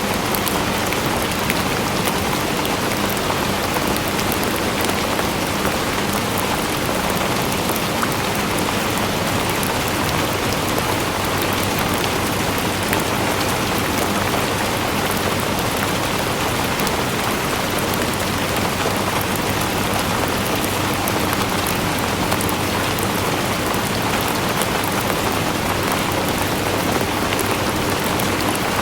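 Steady rain falling, with dense pattering of drops on a surface.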